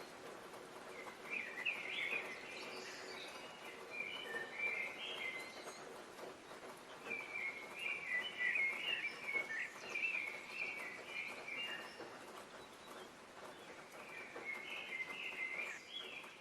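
Songbirds chirping in quick clusters, in three bouts, over steady background noise.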